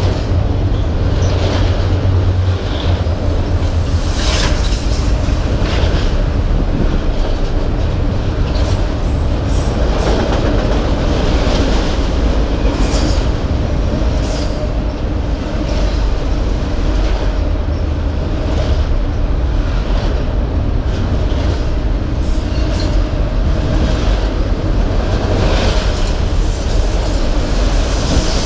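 Autorack cars of a freight train rolling past: a steady rumble of steel wheels on the rails, with irregular clicks and knocks from the wheels and couplers and a thin high wheel squeal now and then.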